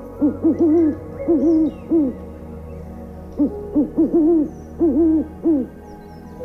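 An animal's low hooting calls, each rising and falling, repeated in quick groups of two or three with a pause of about a second in the middle.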